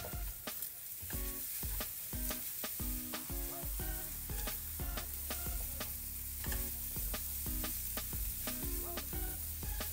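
Shrimp and egg sizzling in a hot nonstick wok, stirred and scraped round the pan with a silicone spatula in repeated strokes. Background music plays underneath, with a low bass line coming in about four seconds in.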